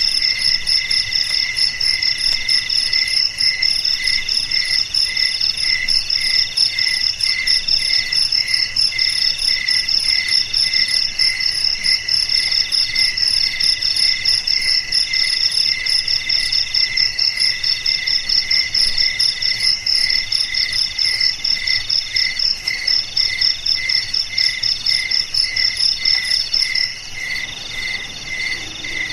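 Chorus of crickets chirping, several overlapping rapid pulsing trills at different pitches. The loudest, highest-pitched trill stops about two seconds before the end.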